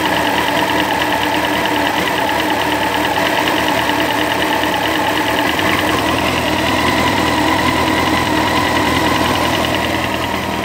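Honda CBR954RR inline-four engine running at a steady speed, with a rapid, regular ticking over the engine note: the weird engine noise the owner is trying to identify.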